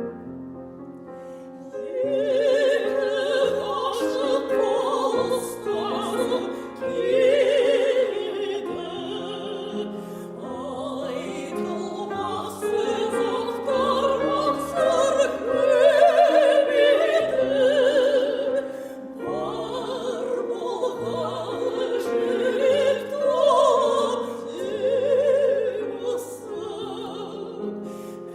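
Operatic classical voice singing with wide vibrato over piano accompaniment; the piano plays alone for about the first two seconds before the voice enters.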